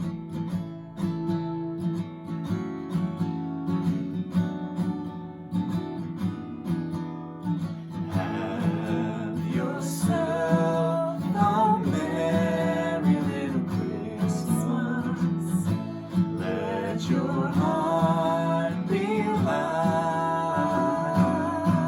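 Acoustic guitar strumming a song introduction; about eight seconds in a voice starts singing over the guitar accompaniment.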